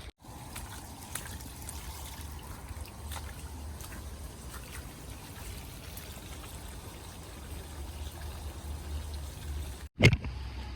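Steady trickle of running water with a low rumble underneath, and a few faint ticks; the sound drops out briefly at the very start and again near the end.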